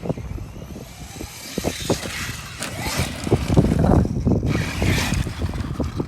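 Arma Mojave 6S RC truck driving hard on a dirt track: its electric motor whines in surges with the throttle and the tyres churn dirt, with repeated knocks and clatter from the chassis over the bumps.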